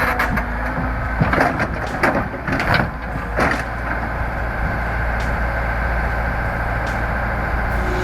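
A heavy vehicle or machine running steadily with a low rumble. Several knocks and clanks sound between about one and three and a half seconds in.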